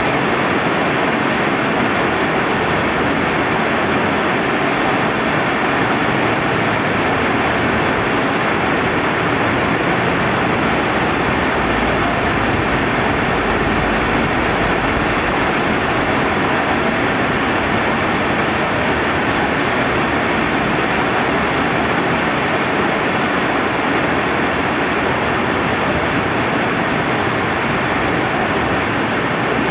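Steady rain falling beside a rushing river, an even, unbroken hiss of water with no gaps or changes.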